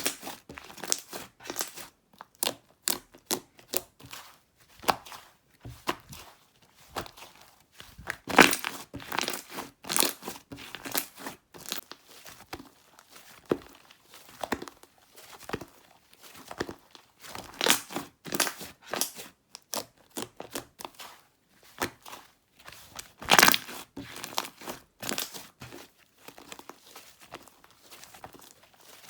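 Slime being squished and pressed by hand, with irregular sticky clicks and pops, several coming in quick clusters.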